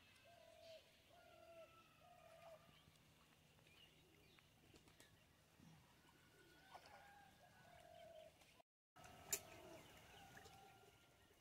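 Faint bird calls outdoors: short, even-pitched notes repeated in runs, about one or two a second. About nine seconds in, the sound drops out for a moment and a single sharp click follows.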